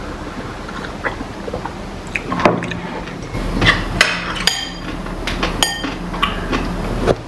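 Tableware clattering during a meal: scattered clicks and knocks, with two clear ringing clinks of a utensil against a dish or glass about halfway through.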